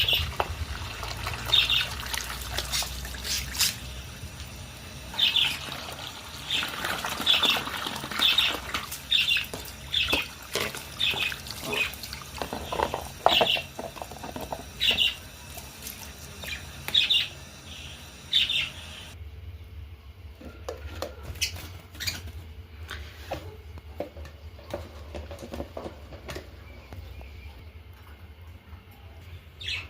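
Budgerigars chirping in short, repeated high calls, with scattered clicks among them. About two-thirds of the way through the chirping stops and only scattered clicks and knocks remain.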